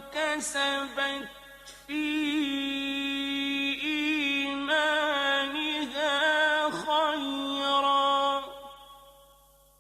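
Male Quran reciter's voice in the melodic mujawwad style, holding long, ornamented notes with a brief breath about a second in, then trailing off with an echo near the end.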